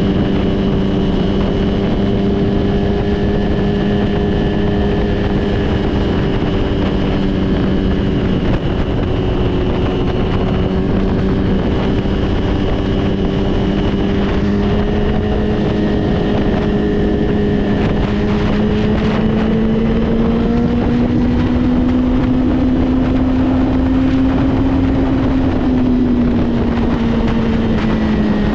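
Motorcycle engine running steadily while riding, with wind rushing over the microphone; the engine note climbs gradually past the middle and drops back near the end.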